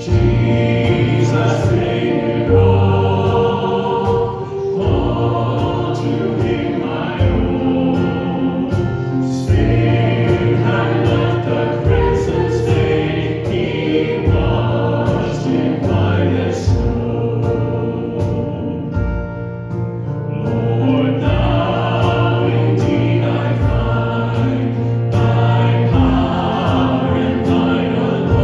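Church congregation singing a hymn together, with steady instrumental accompaniment.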